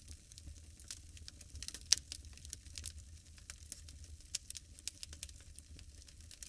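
Fire crackling in a fireplace: irregular sharp pops and snaps, with one louder pop about two seconds in.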